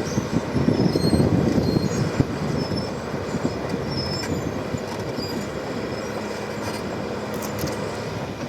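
Liebherr crawler bulldozer's diesel engine rumbling as it works, louder over the first couple of seconds, with short high squeaks and clanks from its steel tracks.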